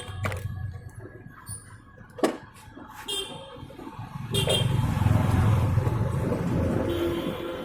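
Motorcycle engine running, becoming louder and steadier about four seconds in, with a sharp click a little past two seconds.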